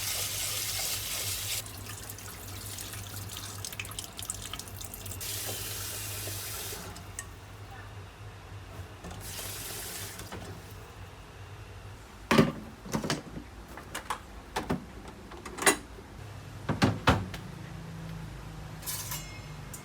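Kitchen tap running into a sink in a few short bursts, then a string of sharp clinks and knocks of kitchenware.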